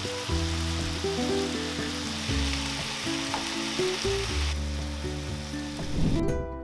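Food sizzling and frying in hot oil in a pan, with background music playing over it; the sizzle drops away near the end.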